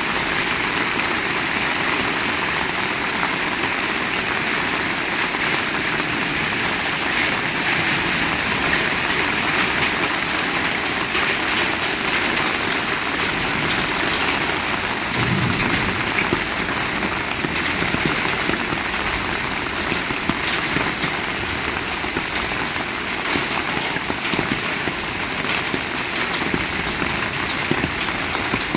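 Heavy rain falling steadily, a dense hiss with many small drop impacts on surfaces, and one brief low thump about halfway through.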